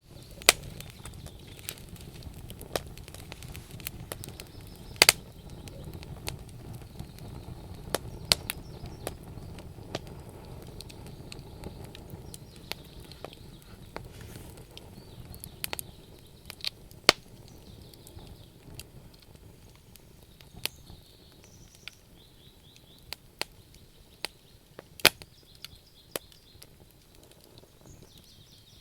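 Campfire of burning wood crackling, with irregular sharp pops and snaps over a low rumble of the flames that grows quieter about halfway through.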